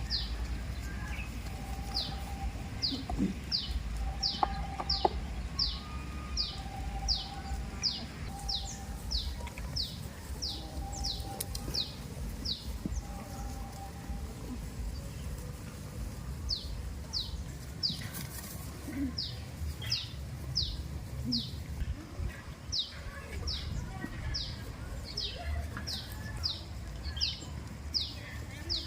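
A bird calling over and over in short, high chirps, each dropping in pitch, about one and a half a second, with a pause of a few seconds about halfway through.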